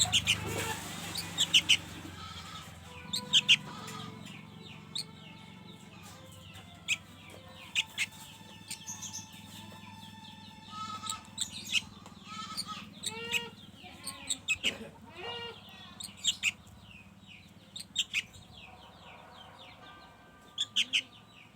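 Young sooty-headed bulbul (kutilang) chirping: many short, sharp calls, often in quick runs, with a few lower calls about two-thirds of the way in.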